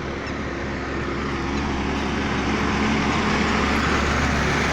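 Vehicle engine running steadily with road noise, a low hum that grows a little louder toward the end.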